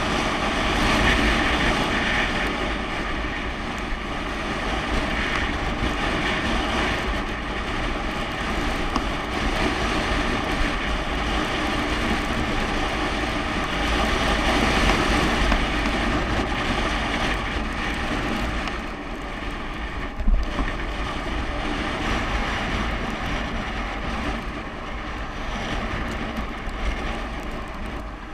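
Wind rushing and buffeting over the camera microphone on a downhill bicycle descent, a steady low rumble with hiss, with one short bump about twenty seconds in.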